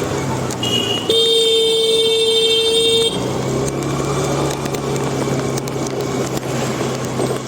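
A vehicle horn held for about two seconds, just after a short higher beep, over the steady hum of traffic on a wet street.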